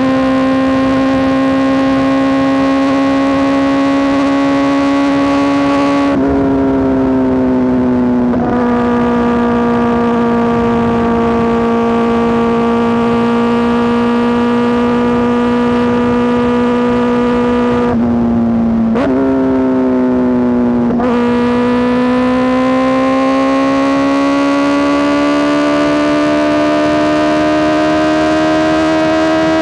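Kawasaki ZX-4RR's inline-four running through an SC Project S1 exhaust at high revs, a loud, steady, high-pitched wail. The pitch dips about six seconds in and again around eighteen and twenty-one seconds, as at gear changes, then climbs slowly near the end.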